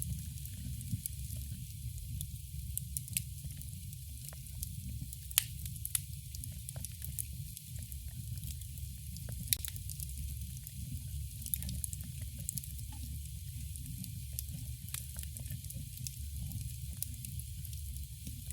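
Campfire burning: a steady low rumble and hiss, with scattered sharp crackles and pops of burning wood. The loudest pops come about five and a half and nine and a half seconds in.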